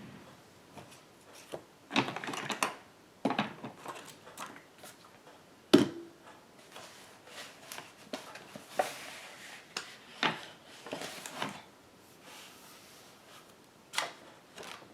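Paper-crafting supplies being handled on a work table: scattered clicks, rustles and taps, with one sharp knock about six seconds in.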